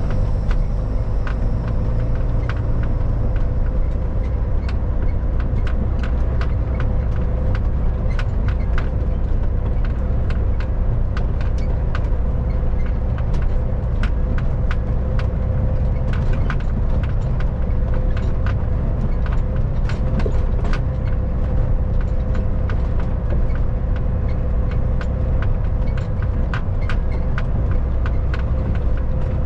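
Kenworth W900 semi truck driving at a steady speed: a constant low engine and road drone with a steady hum over it, and many small, sharp, irregular rattles.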